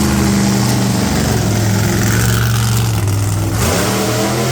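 Monster truck engine running at a steady pitch, then revving up again about three and a half seconds in.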